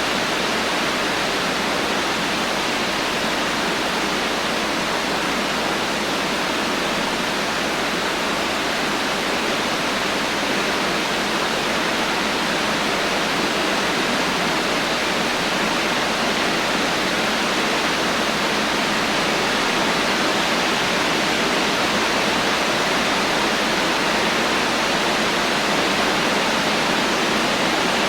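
Heavy, steady rain with no thunder: an even, unbroken hiss of falling water.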